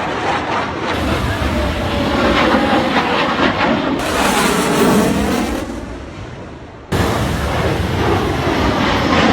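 Jet aircraft roaring past on a low flyby, the roar sweeping in pitch and fading away after about six seconds; an abrupt cut about seven seconds in brings back loud jet roar.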